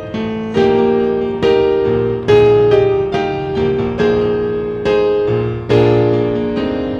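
Background music: a piano playing slow chords, struck roughly once a second and left to ring and fade between strikes.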